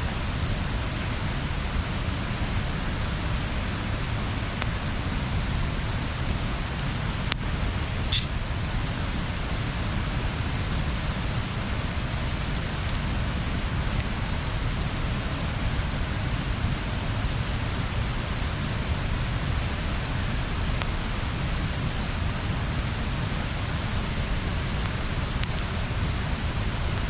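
Wood bonfire burning: a steady low rushing noise with a few sharp crackles and pops, the loudest about eight seconds in.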